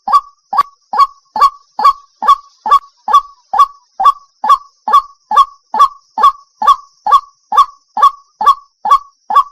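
White-breasted waterhen calling: a long, unbroken series of short, identical notes repeated about twice a second.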